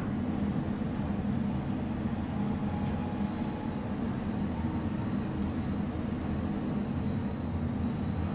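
Steady low rumble of a light-rail train crossing the upper deck of a steel arch bridge, heard from a distance over a general city traffic hum.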